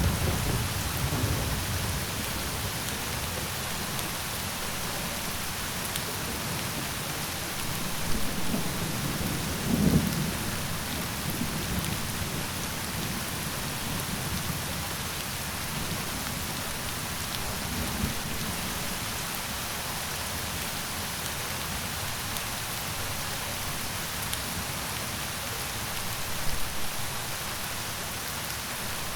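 Steady rain pattering with low rolls of distant thunder: one fading just after the start, a longer swell from about eight to eleven seconds in, a short one near the middle and another near the end.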